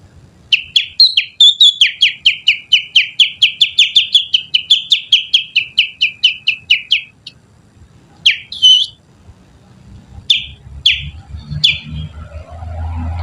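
Finger whistling imitating a kutilang bulbul's song as a lure call: a rapid run of short whistled notes, each sliding down, about five a second for some six seconds, then a few single notes after a short pause. A low hum rises near the end.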